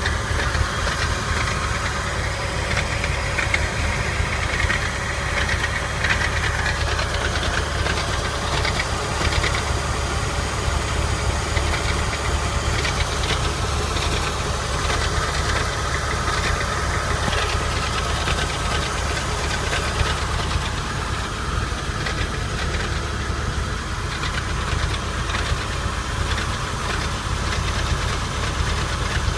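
Porsche 996's water-cooled 3.4-litre flat-six running steadily, heard from beneath the engine and transmission, with a rattle coming from that area.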